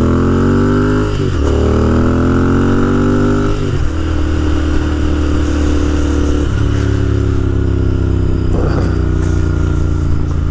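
Royal Enfield Interceptor 650's parallel-twin engine pulling away under acceleration, its pitch rising in each gear with upshifts about a second, three and a half, and six and a half seconds in, then running steadier at cruising speed.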